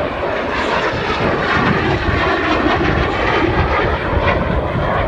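F-16 fighter jet engine noise in flight: a loud, steady rush.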